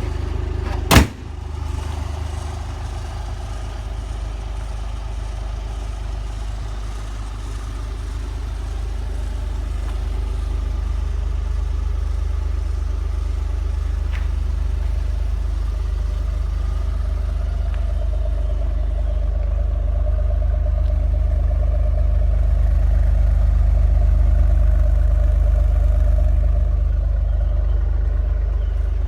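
Maserati Quattroporte V6 engine idling steadily with a deep low rumble, growing gradually a little louder through the second half. A single sharp knock sounds about a second in.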